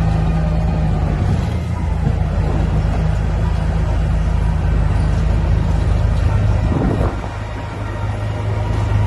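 Heavy diesel engine of earthmoving machinery running steadily under load, easing off briefly about seven seconds in and then picking up again.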